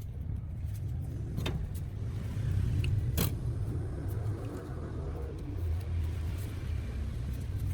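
A steady low hum with two sharp clicks, one about one and a half seconds in and one about three seconds in.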